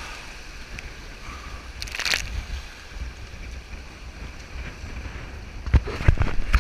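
Whitewater rushing and sloshing around a raft, with a loud splash about two seconds in. Wind rumbles on the microphone, and a few low thumps come near the end.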